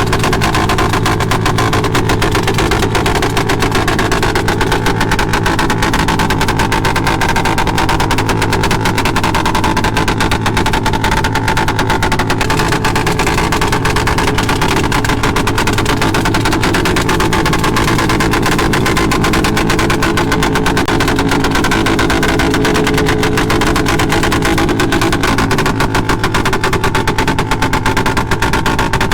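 Motorcycle engine running loud and steady at constant revs, its firing pulses rapid and even throughout.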